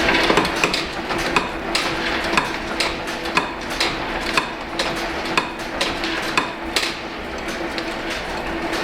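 Old museum machinery running: a steady hum with sharp, regular clicking, about two clicks a second.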